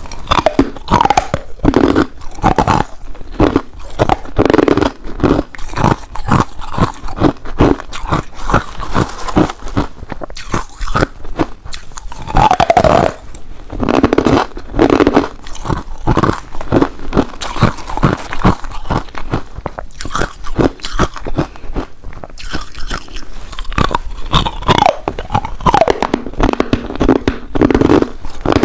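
Ice being bitten and crunched between the teeth close to the microphone: a dense, continuous run of sharp cracks and crunches.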